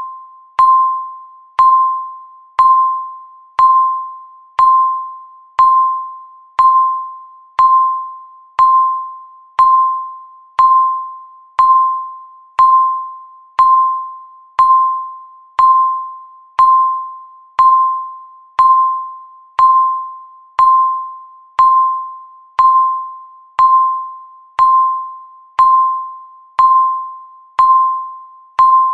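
Countdown timer's per-second tick: one short, high electronic ping about once a second, each dying away before the next.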